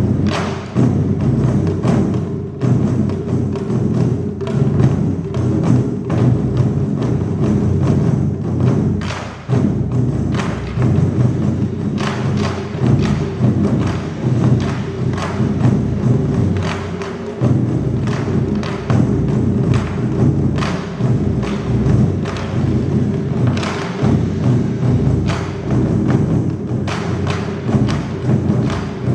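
Taiko drum ensemble playing: many drums struck together in a dense, continuous rhythm of deep strokes with sharp clicks among them.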